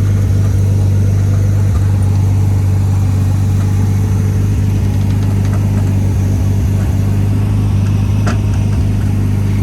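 A motor running steadily at an unchanging pitch, a low hum with a couple of faint clicks near the end.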